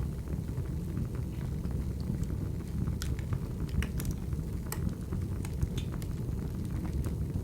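Wood fire burning: a steady low rumble from the flames with scattered sharp crackles and pops from the firewood, a few of them clustered around the middle.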